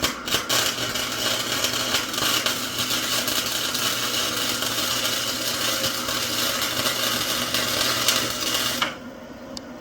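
Flux-core wire-feed welder running a bead: the arc crackles and spits for about nine seconds over a steady low hum, starting and stopping abruptly.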